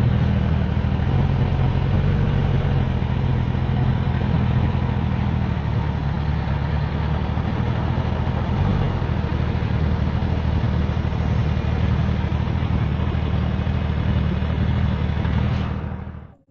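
Suzuki GSX-S1000GT's inline-four engine running steadily at an even pitch, without revving; it cuts off near the end.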